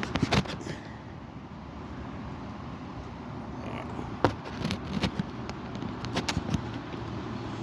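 Strong wind buffeting the microphone as a steady low rumble, with several sharp clicks and knocks: a cluster at the start, one about four seconds in, and a few more a second or two later.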